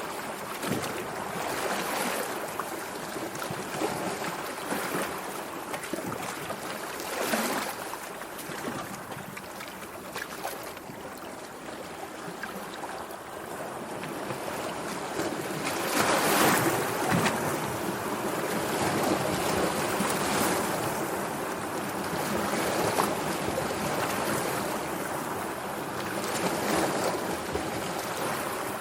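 Sea water lapping and splashing in irregular small waves, swelling loudest a little past the middle.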